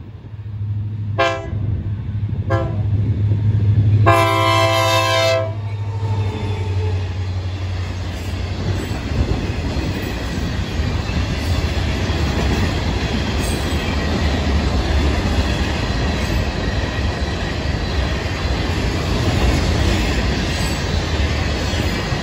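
Florida East Coast Railway freight locomotive 429 sounding its horn for the grade crossing: two short blasts, then a longer one about four seconds in, over the low drone of its diesel engine. Then its loaded rock hopper cars roll past, a steady loud rumble of wheels with clickety-clack over the crossing.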